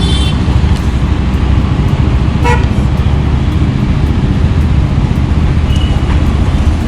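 Steady road-traffic rumble with a short vehicle horn toot about two and a half seconds in.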